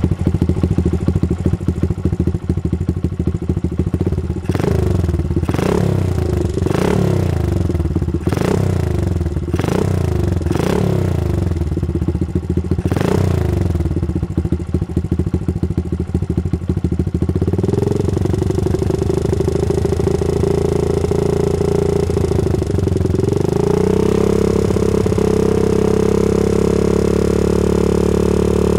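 Modified Honda Cub motorcycle engine running and being revved in short blips about seven times, then settling into steady running and rising to a higher held speed near the end. The engine is blowing white exhaust smoke from the muffler, cause not yet known.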